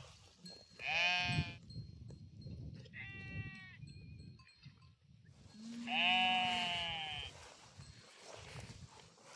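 Livestock bleating three times: a loud bleat about a second in, a fainter one around three seconds, and a longer loud bleat near six seconds.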